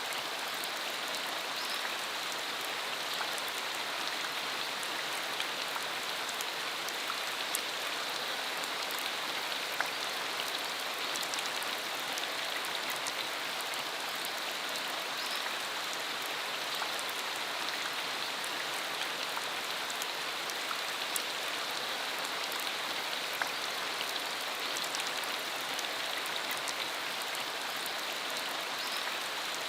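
A rain shower falling steadily: a dense, even hiss of rain with many small, sharp drop ticks scattered through it.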